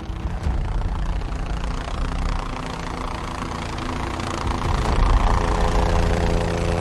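Helicopter rotor and engine, a steady low rumble with rapid blade pulsing that grows louder about five seconds in as the helicopter comes closer.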